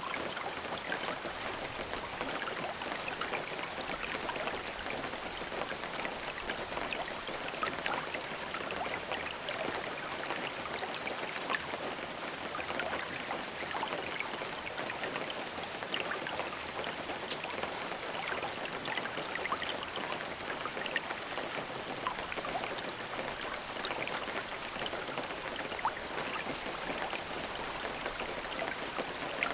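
Steady rain falling, an even hiss dotted with the small ticks of individual drops striking a surface.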